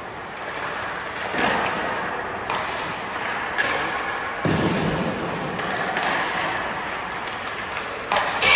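Ice hockey practice: several sharp cracks and thuds of pucks hitting sticks and the boards, echoing in an ice rink.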